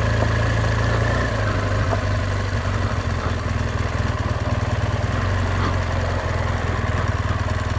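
Motorcycle engine running steadily, a low even drone with a faint hiss above it.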